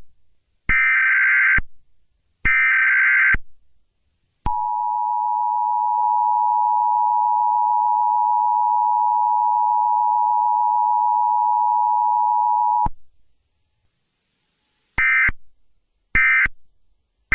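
Emergency Alert System broadcast tones. First come two digital data-header bursts, each about a second long. Then the two-tone attention signal sounds steadily for about eight seconds and stops abruptly, and near the end two short data bursts follow, with a third just starting.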